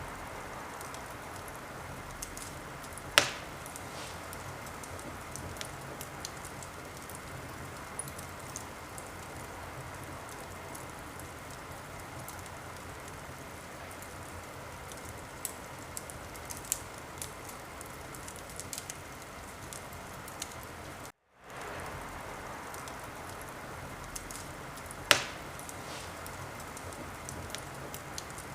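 Wood fire crackling in a fireplace: a steady hiss with scattered small crackles, and two sharp, loud pops, one about 3 seconds in and one near the end. The sound cuts out for a split second about 21 seconds in.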